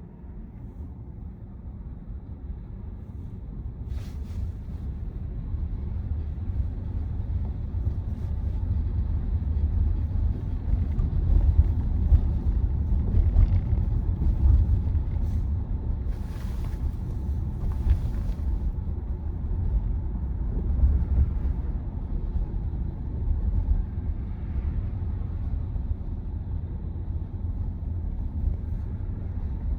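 Road and tyre rumble inside the cabin of a moving Tesla Model Y electric car. It grows louder over the first ten seconds or so, then holds steady. There are a few brief light rustles about four seconds in and again past the middle.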